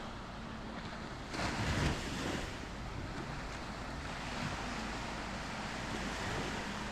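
Small sea waves breaking on a sandy beach: one wave breaks about a second and a half in, then the wash settles back into a steady hiss. A faint low hum runs underneath.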